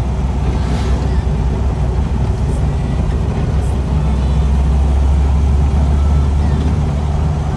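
A car running, with a steady low rumble that grows a little stronger about four and a half seconds in.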